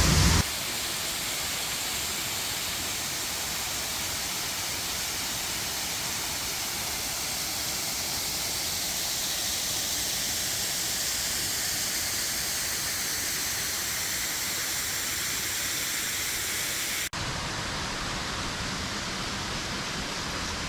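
Waterfall rushing steadily, an even hiss of falling water. Near the end the sound changes abruptly to a duller, lower rush.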